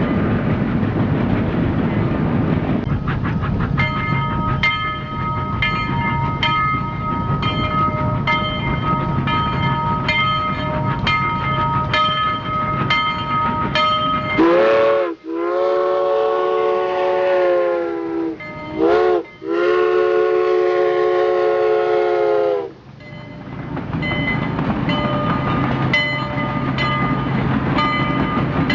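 A train running with a steady rumble and a regular clickety-clack of wheels over rail joints. About halfway through, its whistle sounds four times, two short blasts and two long, the pitch rising as each blast starts and sagging as it stops, before the train rolls on.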